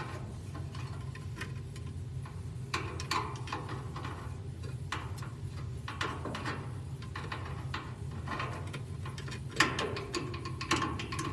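Irregular light clicks and knocks of parts being handled and fitted while a washing machine's pump is put back in place, over a steady low hum.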